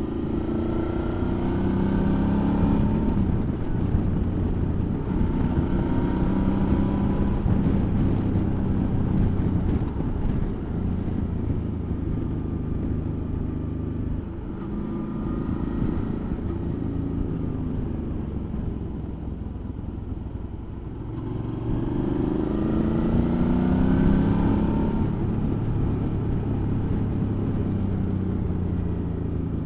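Suzuki V-Strom motorcycle engine on the move, its pitch rising several times as it accelerates up through the gears, with wind noise that swells as it speeds up.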